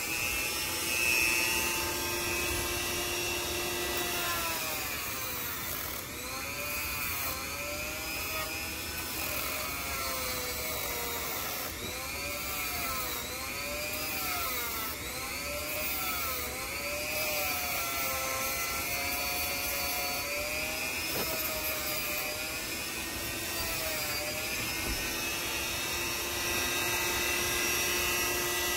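An electric power tool shaping a soft wooden knife handle. Its motor whine repeatedly dips in pitch and recovers as it is pressed into the wood and eased off, over and over through most of the stretch.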